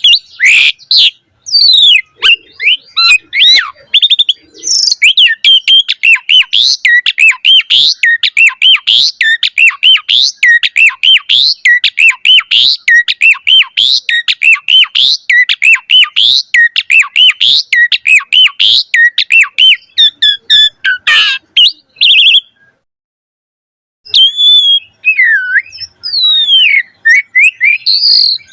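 Pied starling (jalak suren) singing a fast, continuous run of chattering, sweeping whistled notes. About 22 seconds in the song cuts off into a second and a half of dead silence, then resumes with slower slurred whistles.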